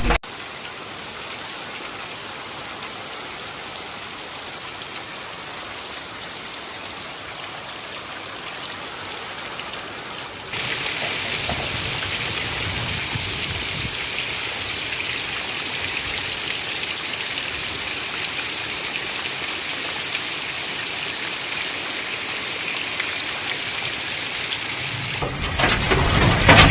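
Steady rain falling, an even hiss. About ten seconds in it switches abruptly to a louder, heavier downpour.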